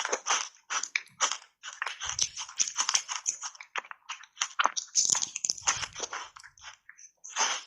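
Close-miked crunching and chewing of small button-shaped ice pieces coated in matcha powder: a rapid run of sharp, crackling crunches, several a second.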